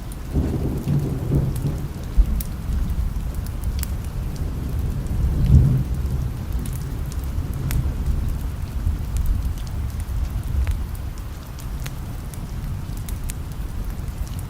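Steady rain with thunder rumbling, swelling about half a second to two seconds in and again around five and a half seconds, over scattered sharp ticks.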